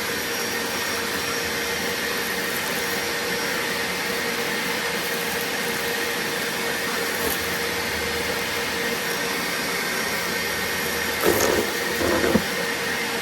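BAUER 3-gallon, 3-peak-HP wet/dry shop vacuum running steadily, its rushing airflow carrying a constant tone. A few short knocks and rattles come near the end as it picks up debris.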